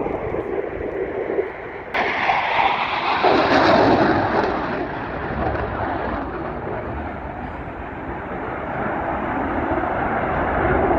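Airplane passing overhead: a loud noise that starts suddenly about two seconds in, peaks, slowly eases, and swells again near the end.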